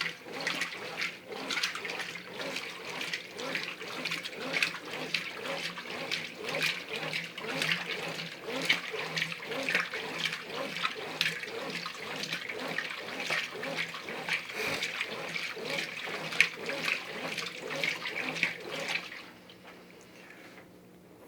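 Brastemp Ative 11 kg top-load washing machine agitating a heavy-cycle load: water and clothes slosh rhythmically in the drum over a faint steady hum. The sloshing stops about two seconds before the end as agitation pauses for a soak.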